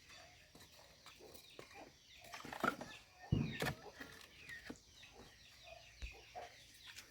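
Chickens clucking faintly, with scattered small clicks and a low thump a little past three seconds in.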